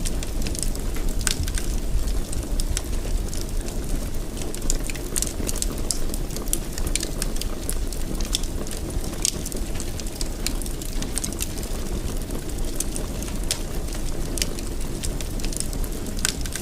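Wood fire burning in a fireplace: a steady low rumble of flames with frequent, irregular crackles and pops.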